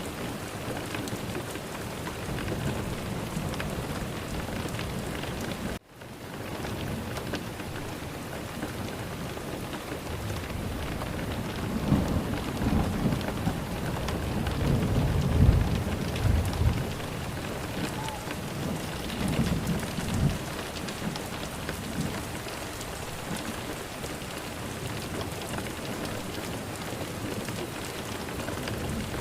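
Steady rain falling, with a deep rumble of thunder building through the middle and peaking about halfway, then a shorter rumble a few seconds later. The rain cuts out for an instant about six seconds in.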